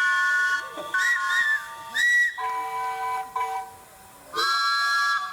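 A chorus of miniature steam traction engine whistles blowing at once at several different pitches, some held and some given as short toots. They mostly drop away about four seconds in, then a group of them sounds loudly again near the end.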